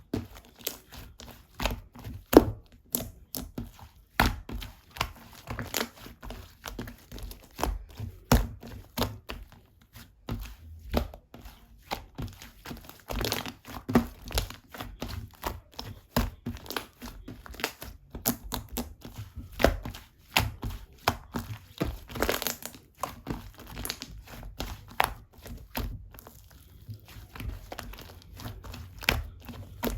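White cream-type slime being squished, pressed and stretched by hand, giving a continuous run of irregular sticky clicks and small pops.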